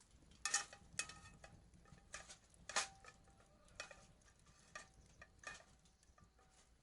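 Light metal clinks and taps, about eight at uneven intervals, several with a brief ringing tone, as of metal parts or utensils knocking together.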